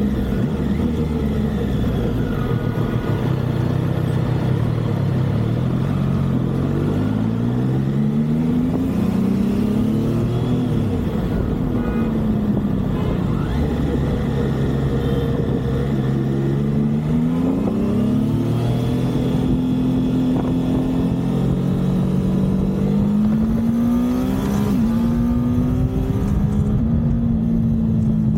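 A Triumph superbike's engine under way on the highway. Its note climbs and drops back several times as it accelerates through the gears, falls once as it slows, then holds steady near the end, over a constant low rumble of road and wind noise.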